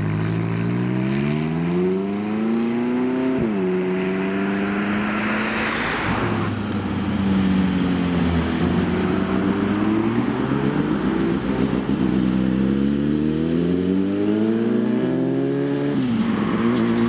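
Supercar engine accelerating: its note rises for about three and a half seconds, drops sharply at an upshift, then climbs again in a second, longer pull that falls away near the end.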